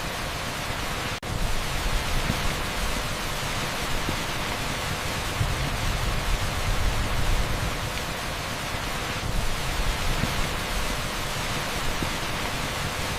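Heavy rain pouring onto a paved street, a dense, steady hiss with no single drops standing out. About a second in it briefly drops out for an instant.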